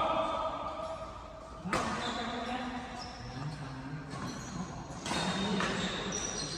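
Badminton rally in a large hall: sharp racket strikes on the shuttlecock, three of them, the second about a second and a half after the first and the third about three seconds later, each ringing in the hall, with voices in the background.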